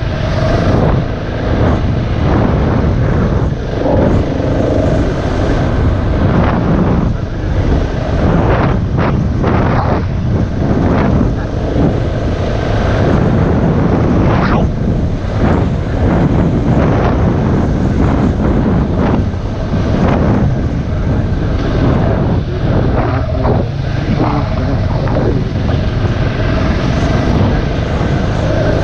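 Single-cylinder four-stroke dirt bike engine running steadily under riding load, with wind buffeting the microphone and frequent short knocks throughout.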